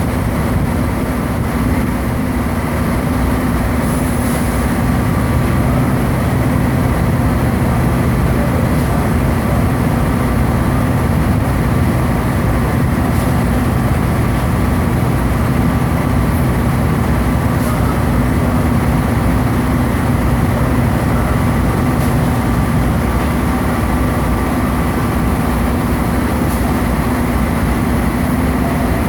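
Heavy diesel fire-truck engine idling steadily with a low hum.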